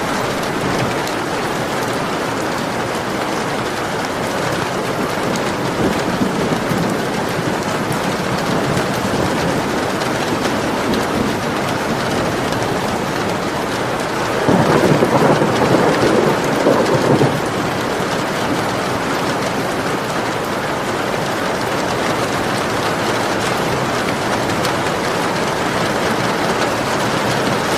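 Steady rain falling, with a roll of thunder about halfway through that lasts about three seconds.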